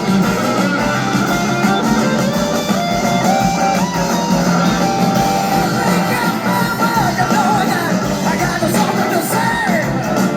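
Live blues-rock band playing an instrumental passage, with a lead electric guitar bending and gliding between notes over the band.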